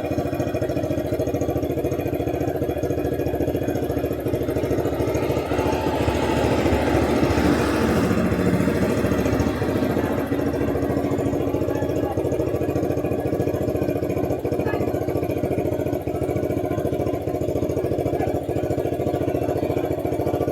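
Sport bike engine idling through its exhaust with a steady rapid beat, swelling louder for a few seconds near the middle before settling back.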